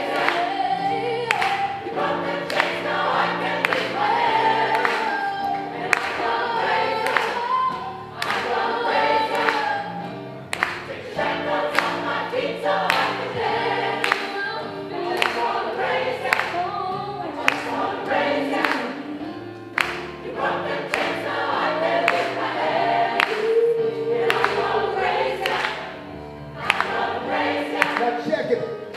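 Gospel choir singing a song over a steady beat.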